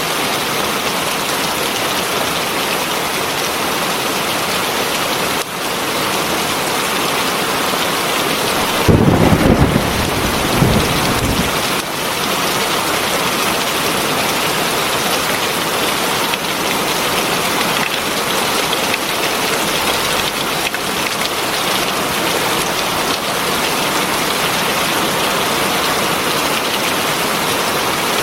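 Heavy rain falling steadily. About nine seconds in a low rumble of thunder breaks through, the loudest sound, lasting about two and a half seconds.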